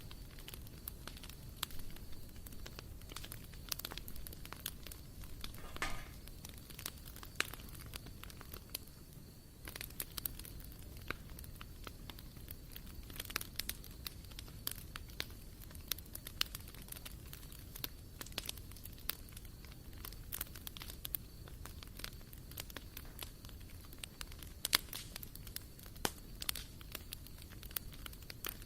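Wood fire burning in a barbecue grill, crackling with frequent irregular sharp pops over a low steady rumble.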